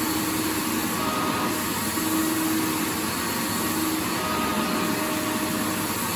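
Vacuum cleaner running steadily: a continuous even hiss with a faint motor hum whose tones fade in and out.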